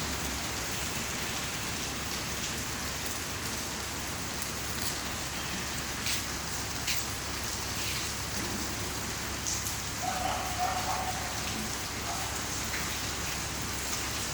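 Steady rain falling, with a few sharper drops now and then. A short faint tone sounds about ten seconds in.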